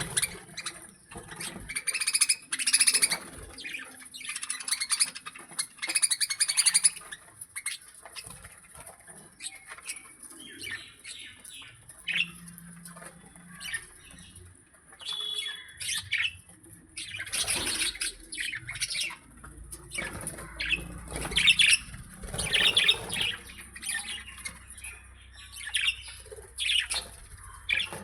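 Birds chirping and squawking in short, irregular calls, over a steady high-pitched hiss.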